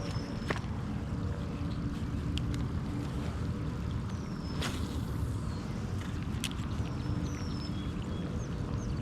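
Steady rushing of a small creek's water, with a songbird's short falling chirps now and then and a few sharp clicks.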